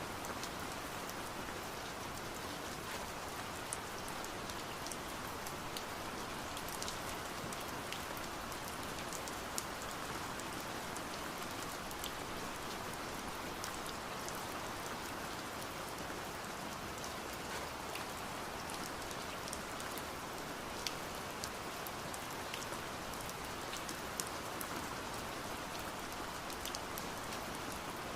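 Steady rain hiss with scattered sharp ticks of raindrops tapping on window glass.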